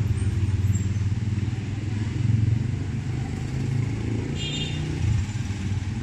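A vehicle engine running steadily with a low rumble, with a brief higher tone about four and a half seconds in.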